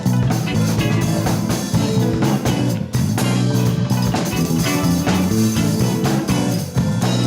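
Latin fusion band playing a song: guitar chords over a bass line and a drum kit keeping a steady beat.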